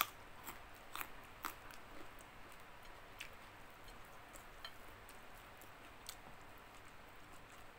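Biting into and chewing a raw carrot: a crisp crunch of the bite, then sharp crunches about every half second for a couple of seconds, thinning out to occasional crunches.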